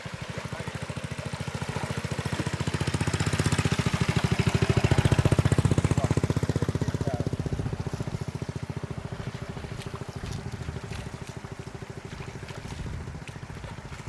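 A small engine running with a fast, even pulse, growing louder to a peak about five seconds in, then fading.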